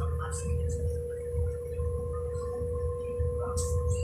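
Passenger train running between stations, heard from inside the carriage: a low rumble under a steady humming whine, with a brief high hiss near the end.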